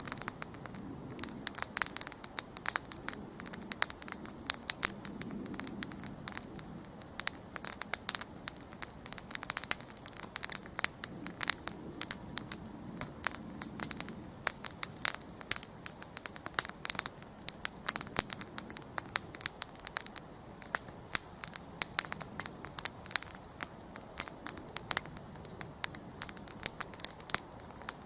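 Wood campfire crackling and popping, many sharp irregular snaps over the low soft sound of the flames.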